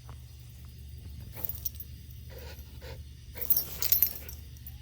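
Dogs moving about, with faint dog sounds such as panting and a cluster of sharp rustling noises about three and a half seconds in, over a steady low hum.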